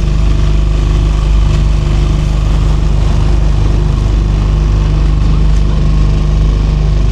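Engine of a small hire motorboat running steadily under way, a constant low drone.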